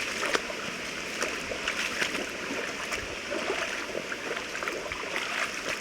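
A small woodland stream babbling and trickling over stones, with a steady wash of water and many small splashes.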